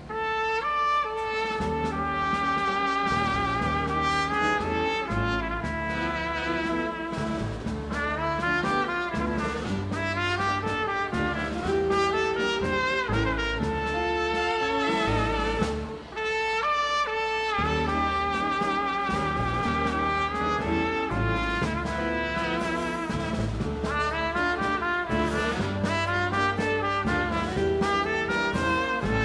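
Dance band playing a tango instrumentally, with brass carrying the melody over a bass line and rhythm. There is a short break in the music about sixteen seconds in.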